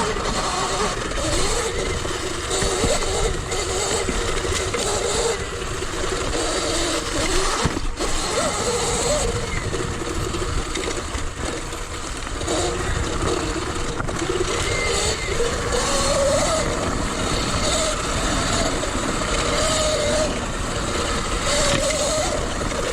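Sur Ron Light Bee X electric dirt bike being ridden off-road: the electric motor's whine rises and falls with the throttle over a steady rushing noise.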